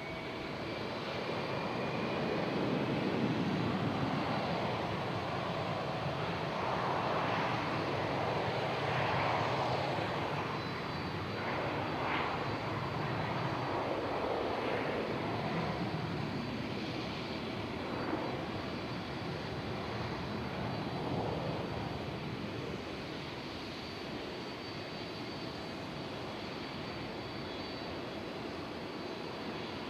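Jet airliner engines, a Boeing 787's, swelling to a loud rush a couple of seconds in and then slowly fading as the aircraft passes.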